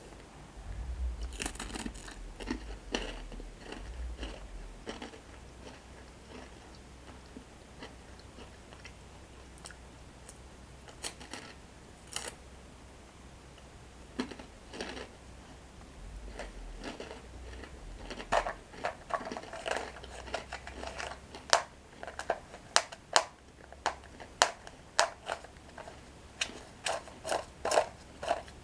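Close-miked crunching and chewing of toasted breadsticks with cocoa cream. There are scattered clicks and handling noises in the first few seconds, and in the second half sharp, crisp crunches come about once a second.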